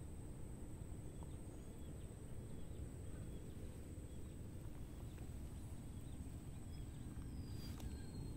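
Quiet riverside outdoor ambience: a steady low rumble under a thin, steady high whine, with faint short chirps repeating a little more than once a second.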